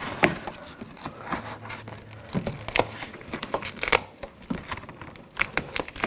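Plastic vapor barrier crinkling as it is peeled back off a car door's inner panel, the butyl tape sealing it pulling away with irregular crackles and small clicks.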